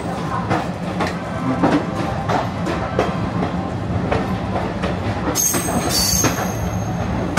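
Passenger train of ICF coaches rolling slowly into a station, wheels clacking over rail joints and points at uneven intervals over a steady low rumble. A brief high metallic squeal comes a little past halfway.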